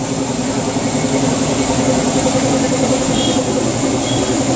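Whirlpool stackable washer running its spin cycle: a steady mechanical hum from the motor and drum. It spins again now that the fault, a worn lid switch, has been found.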